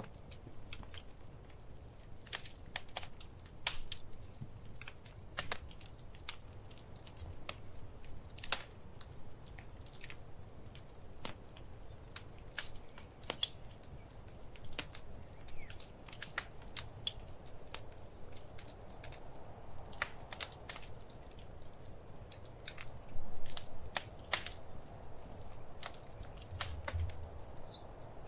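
Wood fire crackling, with irregular sharp pops and snaps over a low, steady rumble. A louder burst of pops comes about three-quarters of the way through.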